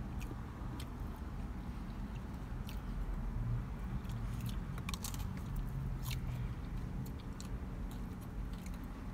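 Chewing and biting into a Jack in the Box crispy taco shell: scattered crunches and mouth clicks, most frequent around the middle, over a low steady hum.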